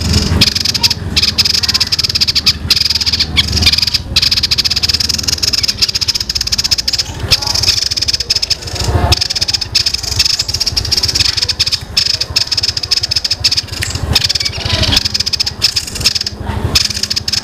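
A small songbird giving a long, dense, rapid chattering roll with no real pauses, in the style of a fighting Eurasian tree sparrow's chatter.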